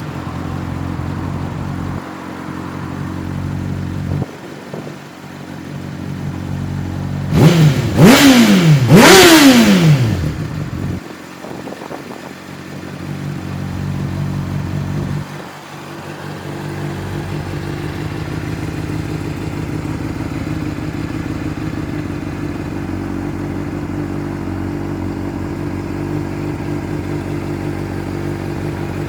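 Honda CBR600RR's inline four-cylinder engine idling just after start-up, blipped twice in quick succession about halfway through, each rev rising sharply and falling back, then settling to a steady idle.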